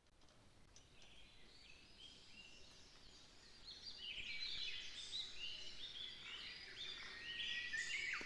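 Several birds singing at once, a busy tangle of quick chirps and trills over a faint outdoor hiss. It fades in at the start and grows louder about halfway through.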